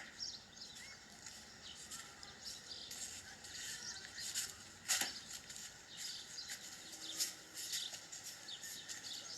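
Faint outdoor background with scattered short, high bird chirps and one sharp click about five seconds in.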